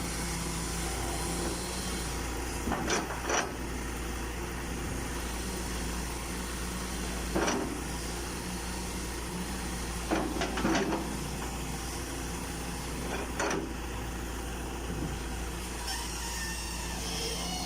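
Hitachi EX120-1 excavator's diesel engine running steadily under work, with several short sharp knocks and clunks spread through it.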